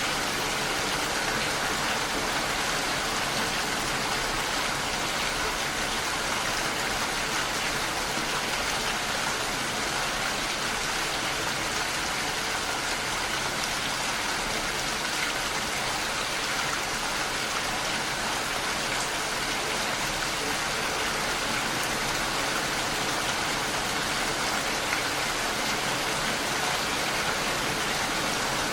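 Heavy rain falling steadily on a window, an even hiss of drops with no let-up.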